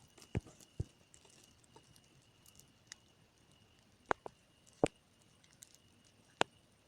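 Campfire crackling: scattered sharp pops and snaps, a couple just after the start, a louder cluster about four to five seconds in, and one more near the end.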